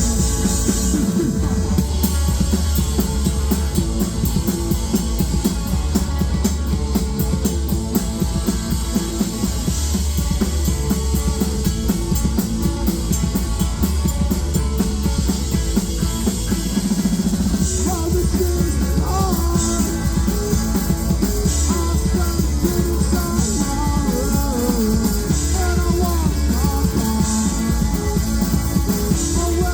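Live rock band playing a long instrumental stretch of a song, drums and amplified instruments with a heavy steady low end, and some pitched melodic lines coming in during the second half.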